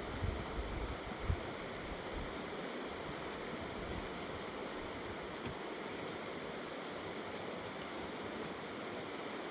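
Steady rushing of a fast mountain river, with a couple of low thumps in the first second and a half.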